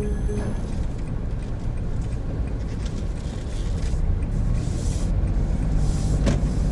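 Cabin road and engine noise of a 2017 Honda N-BOX Custom with its 660 cc turbo engine, driving along: a steady low rumble, with brief swells of hiss about four to five seconds in and again about six seconds in.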